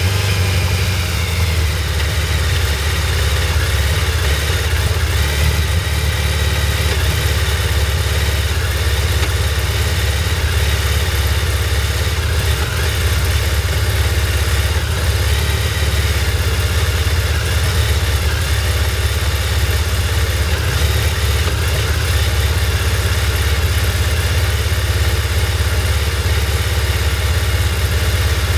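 2002 Suzuki Hayabusa's inline-four engine idling steadily, warming up after a cold start on a bike that had stood unused for years.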